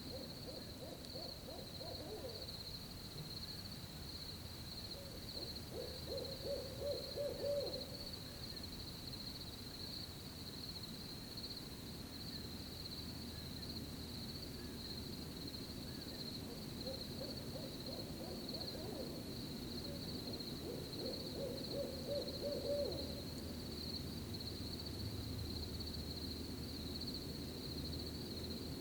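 An owl hooting in four short series over a steady, high, continuous cricket trill.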